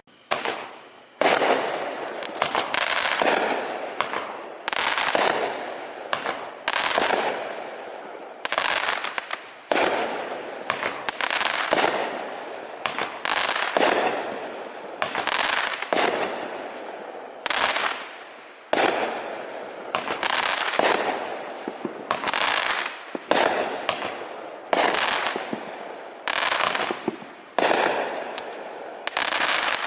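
A 500-gram consumer repeater firework cake firing shot after shot, about one a second, each launch thump followed by its aerial burst and trailing crackle of the stars and strobes.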